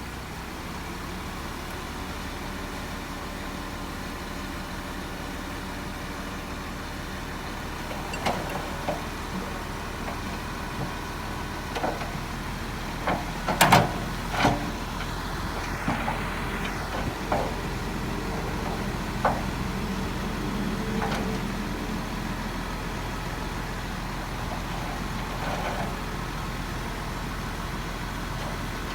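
Heavy diesel earthmoving machinery running steadily. A run of sharp metallic clanks and knocks starts about a third of the way in, with a cluster of the loudest ones near the middle, and dies away after about two-thirds.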